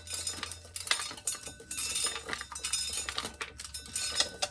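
Dry field corn being shelled by hand from small ears: kernels snapping off the cob and clicking against one another in a rapid, irregular patter of small hard clicks.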